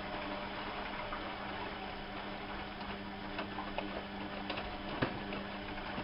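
Bauknecht WAP 6460 washing machine running, with a steady hum and scattered light ticks and clicks, and one sharper knock about five seconds in.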